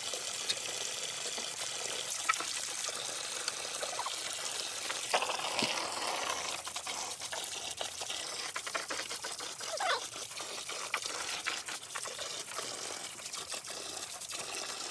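Running water: a steady trickling hiss with small scattered splashes and clicks.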